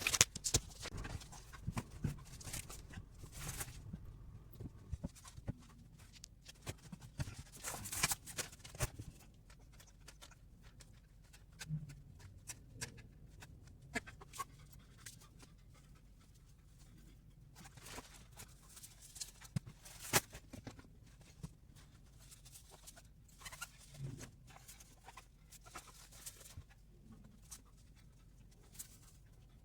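A man breathing hard through a set of push-ups, with several louder exhalations, amid scattered knocks, clicks and rustling of clothes.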